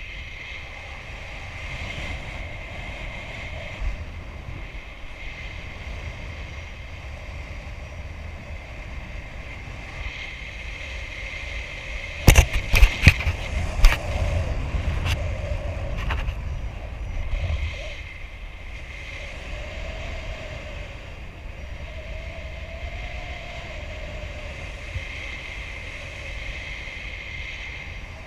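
Wind rushing over the microphone in paraglider flight, steady throughout. Around the middle comes a cluster of sharp, loud knocks and buffets lasting a few seconds.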